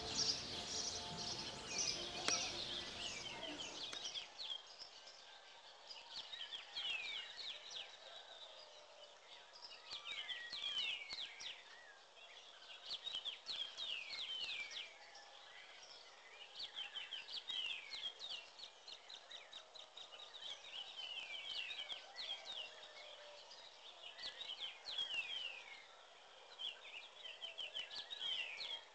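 Birds calling: many quick downward-sweeping chirps in short runs every second or two, over faint outdoor background noise. The background is fuller for the first four seconds, then drops away.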